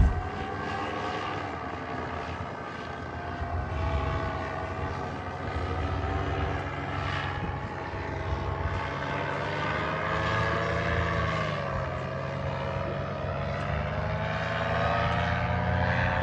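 A steady motor drone running throughout, its pitch drifting slowly up and down, with a sharp click at the very start.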